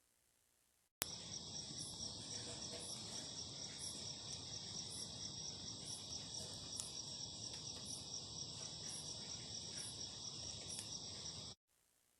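Chorus of night insects (crickets) trilling steadily and high-pitched, with a faint pulse about twice a second. It starts abruptly about a second in and cuts off suddenly near the end.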